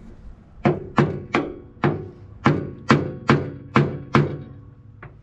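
Hammer blows on steel: about ten sharp strikes, roughly two to three a second, each ringing briefly, with a short pause before a lighter last blow near the end.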